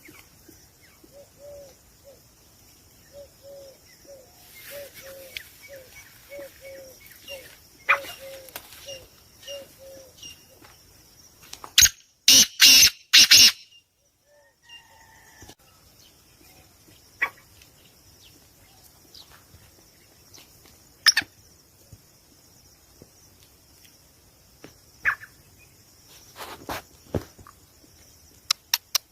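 Birds calling: a run of short, repeated calls at about two a second for the first several seconds over steady high chirping. About halfway through comes a cluster of loud sharp knocks.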